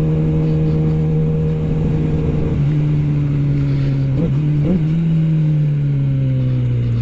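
Kawasaki ZX-10R's inline-four engine running while riding. Its pitch steps down about two and a half seconds in, gives two short upward blips a little after four seconds, then falls steadily as the bike slows.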